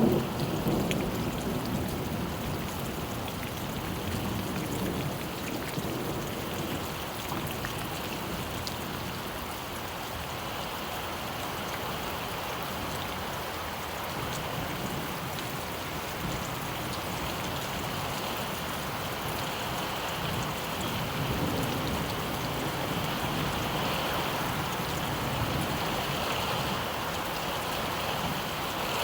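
Steady rain falling, with a low rumble of thunder at the start.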